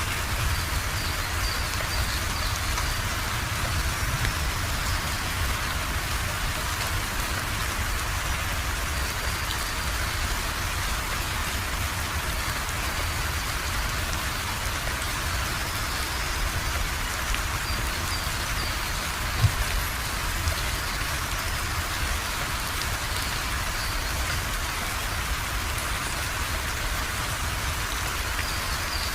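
Steady rain falling and pattering on surfaces, an even hiss with a low rumble beneath. One short low thud sounds about two-thirds of the way through.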